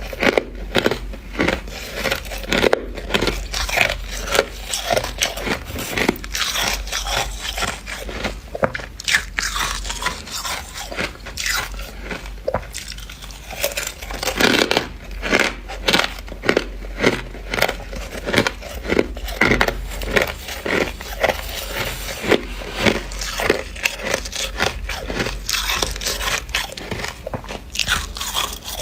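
Dry, powdery deep-freezer frost being bitten and chewed close to the microphone: a dense run of crunches, several to the second, bite after bite.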